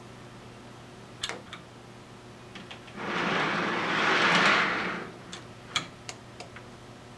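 Model train running on track: scattered clicks of wheels over rail joints, and a hissing swell that builds and fades over about two seconds in the middle as the train passes close.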